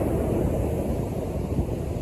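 North Sea surf and wind, heard as a steady low rumble, with wind buffeting the microphone.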